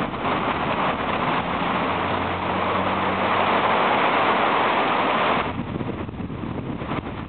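Storm wind rushing in a strong gust that swells in the first second and drops off suddenly about five and a half seconds in, with a faint low hum underneath for a few seconds.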